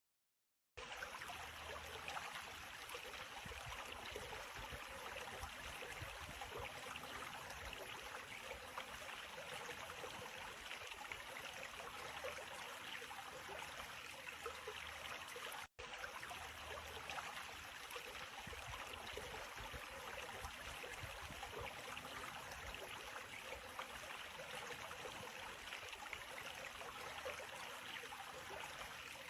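Steady, faint rush of running water, like a stream, with a brief cut to silence about halfway through.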